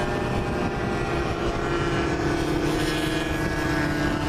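Radio-controlled model warplane's propeller engine running steadily in flight, its pitch dipping slightly towards the middle.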